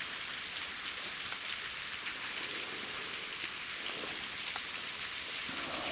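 Waterfall: a steady rushing hiss of falling water.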